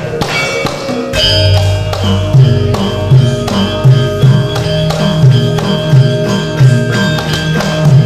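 Javanese gamelan playing: ringing bronze metallophone and gong tones over a regular beat of hand-drum (kendang) strokes. A deep, sustained gong tone comes in about a second in and carries on under the ensemble.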